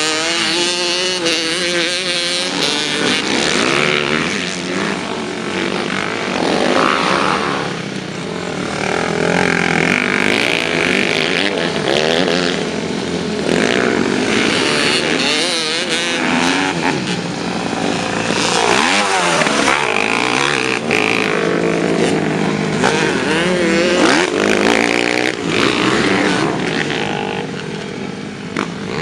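Several motocross bikes' engines revving, their pitch climbing and dropping again and again and overlapping with one another.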